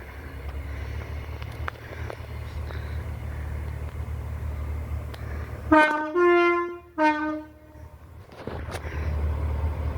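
Diesel train's engine rumbling steadily, then about six seconds in the driver sounds the two-tone horn three times, low-high-low, with the middle higher note held longest. The low engine rumble comes back near the end.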